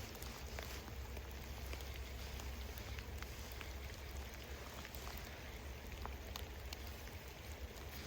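Rain falling steadily, a constant patter with scattered ticks of single drops, over a low rumble.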